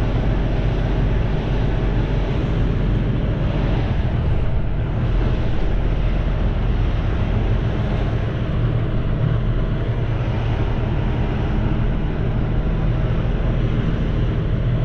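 Semi truck's diesel engine running steadily, heard from inside the cab as the truck rolls slowly through a yard.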